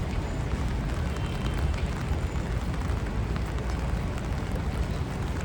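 Rainy city street ambience: a steady low rumble of traffic with a hiss of rain and wet pavement.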